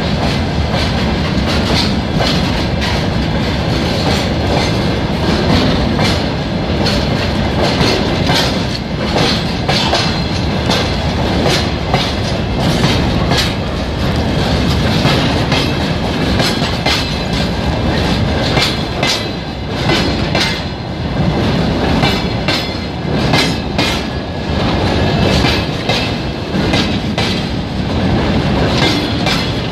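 Freight train passing close by, its wagon wheels clattering continuously over the rail joints with a steady heavy rumble.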